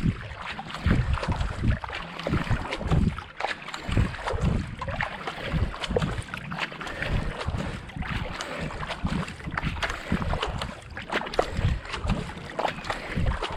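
Racing kayak being paddled at a steady race pace: the paddle blades splashing in and out of the water stroke after stroke, with wind buffeting the microphone in low rumbles.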